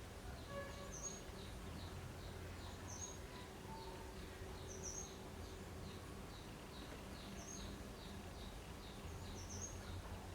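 Faint background ambience of small birds chirping: short high chirps every second or two and a run of quick, falling peeps, over a steady low hum.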